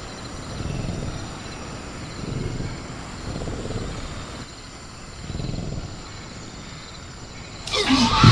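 Sound-designed velociraptor growling low in swells, over a steady high chirring of crickets; near the end a loud screeching call breaks in.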